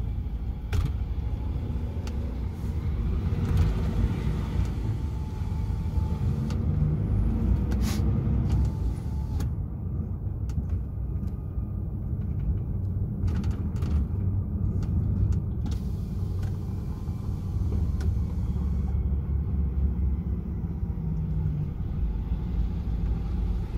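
DAF XF 480 truck's six-cylinder diesel engine running at low revs, a steady low rumble.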